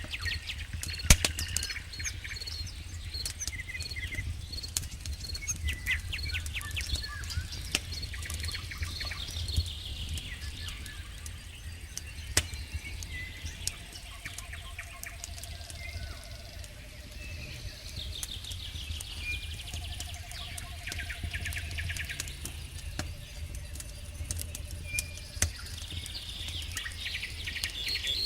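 Campfire wood crackling with scattered sharp pops over a low steady rumble of the fire, while crickets chirp in rapid trains. A few short, low, pulsed trills of frogs croaking come in about halfway through and again later.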